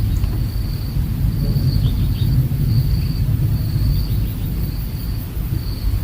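Outdoor ambience: a loud low rumble with a high, thin insect trill switching on and off every second or so. A few faint short chirps come about two seconds in.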